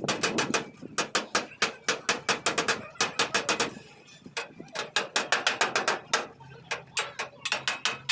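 Hammer beating out dents in a pickup's sheet-metal body panel: runs of quick sharp strikes, about five a second, broken by short pauses.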